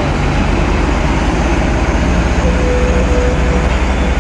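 Heavy truck running with a steady, loud low rumble and road noise. About halfway through, a thin, steady high tone enters and holds.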